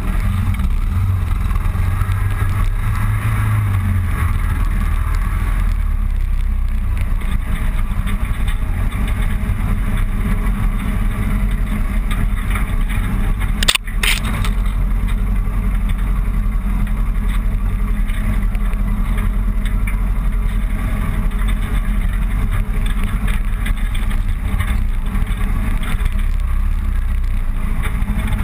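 Motorcycle riding along a road: steady engine and wind noise on the microphone, with a brief sharp click about halfway through.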